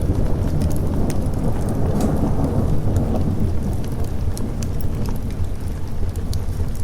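Thunder rumbling over steady rain. The rumble swells about two seconds in and eases off by about four seconds. Scattered sharp crackles run through it.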